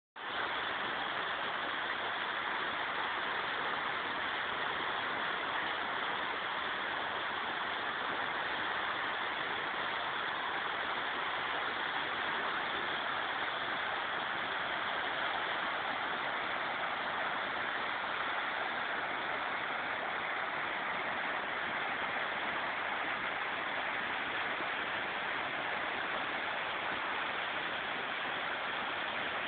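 The Assabet River running high and fast after days of rain: a steady, even rush of water.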